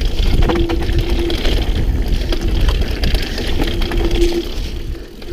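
Mountain bike running down a rough trail, heard from a helmet-mounted camera: steady rumble and rattle from the ground, with sharp clicks and knocks. A buzzing tone of steady pitch comes and goes twice, near the start and again near four seconds in.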